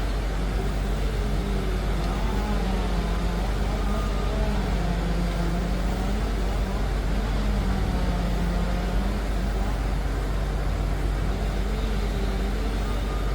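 Liebherr PR 746 dozer's diesel engine running under load, its pitch rising and falling slowly as the revs change.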